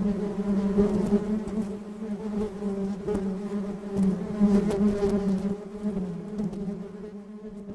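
Bee buzzing: a steady low buzz with a slightly wavering pitch, fading out toward the end.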